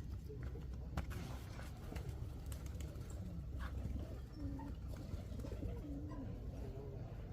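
Hens clucking and crooning in short, low, wavering calls, over a steady low rumble and a few sharp clicks.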